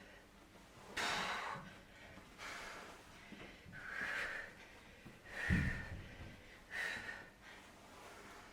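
A person breathing hard from exertion during a kettlebell plank pull-through set: sharp, noisy exhales about every second and a half. The loudest of them, about halfway through, comes with a dull low thump.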